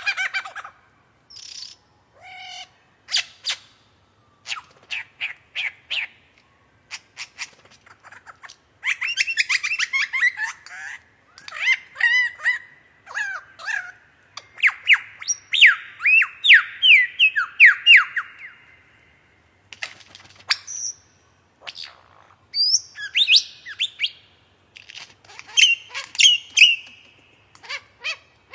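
A songbird singing a varied song of quick whistled and chattering notes in separate phrases with short pauses, many notes sliding quickly in pitch.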